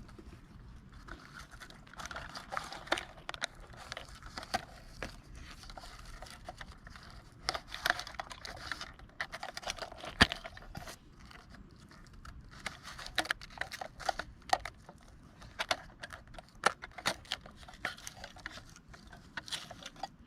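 Handling noise: irregular sharp clicks and taps mixed with short crinkling rustles, on and off.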